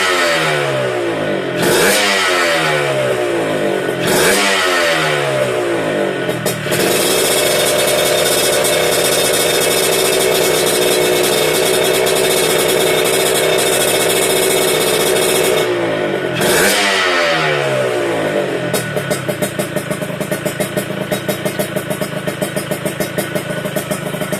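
Yamaha RX-King's two-stroke single-cylinder engine through an SPR Racing aftermarket exhaust: revved in three quick blips that fall back each time, then held at high revs for about nine seconds, blipped once more, and left to settle into a pulsing, uneven two-stroke idle near the end.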